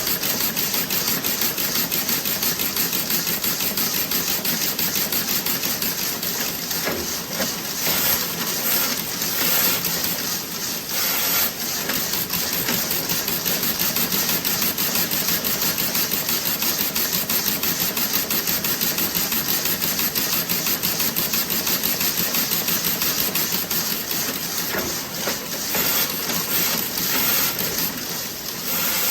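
Toe-sock knitting machine running, a fast, steady mechanical clatter of rapid clicks, with brief changes in its texture about a third of the way in and again near the end.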